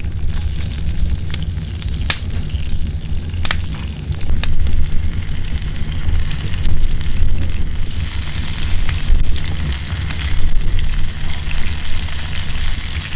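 Campfire cooking: crackling and sizzling with a few sharp pops, turning into a denser crackle about four seconds in. Strong wind rumbles steadily on the microphone underneath.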